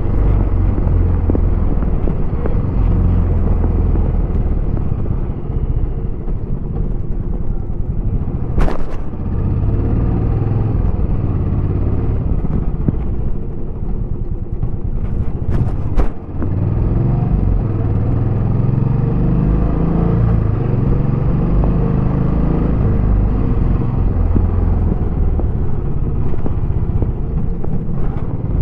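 Royal Enfield Bullet 350X single-cylinder engine and stock exhaust running steadily under way, heard from the rider's position, with a deep low rumble. Sharp clicks come about 9 seconds in and twice around 16 seconds, where the engine note briefly dips and then picks up again.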